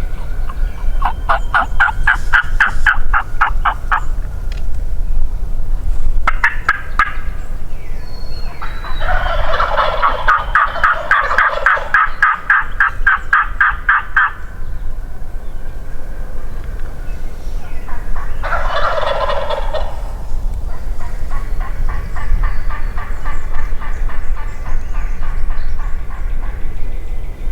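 Wild turkeys calling from the roost in several series of rapid, repeated notes. The longest and loudest series comes about ten seconds in, with a fainter one near the end, all over a steady low rumble.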